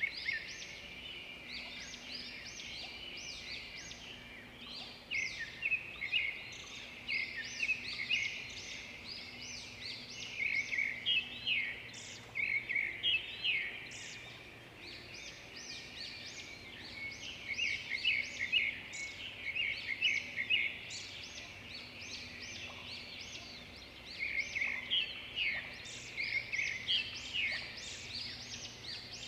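Songbirds singing: rapid runs of short, high chirping notes in repeated bouts, with brief lulls in between.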